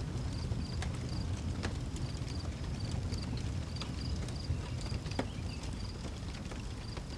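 Outdoor wood fire crackling, with scattered sharp pops over a low steady rumble of flames. Crickets chirp regularly in a high-pitched pulsing rhythm behind it.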